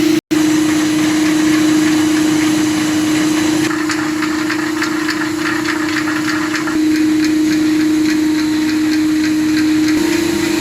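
Dishwasher tablet press and packing machine line running: a steady motor hum, with rapid clicking from the machinery from about four seconds in until near the end. The sound cuts out for an instant just after the start.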